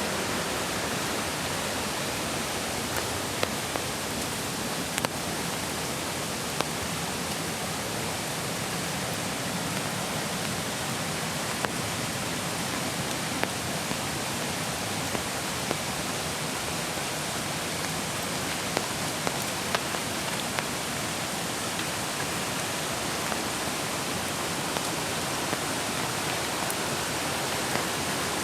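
Mountain creek water rushing in a steady, even roar, with light rain, and scattered sharp ticks throughout.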